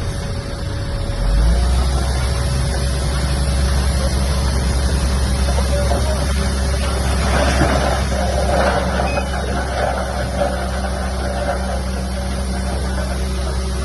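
Diesel engine of heavy earthmoving equipment running steadily at a low pitch, with a rougher, noisier stretch about halfway through.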